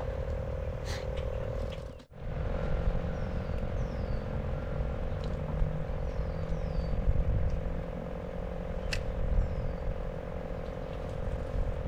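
Frogs calling in one steady, unbroken trill, with a few short falling bird chirps over it and a brief dropout about two seconds in.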